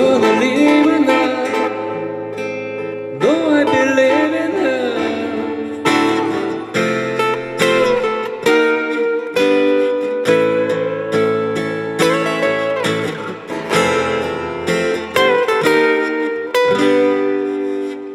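Acoustic guitar playing an instrumental passage of a song: plucked chords under a melody line with sliding, bending notes.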